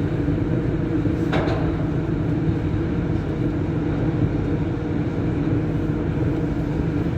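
Rubber-tyred Lyon Metro Line B train heard from inside, running with a steady hum and rolling noise. A brief sharp squeal or click cuts through about a second in.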